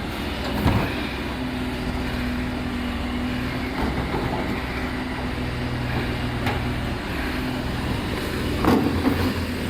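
Recycling truck engine running steadily, with a couple of short knocks about a second in and near the end.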